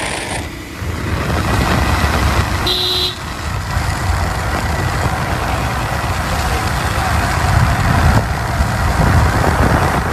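Road vehicle engine running with heavy rumbling noise, and a short horn toot about three seconds in.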